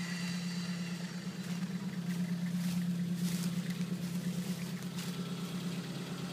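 Off-road vehicle's engine running steadily, a constant low hum with a few light clicks and knocks over it.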